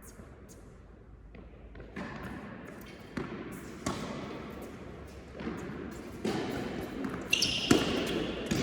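Tennis balls being struck and bouncing on an indoor court: sharp, irregular pops about a second apart with a hall echo, louder towards the end.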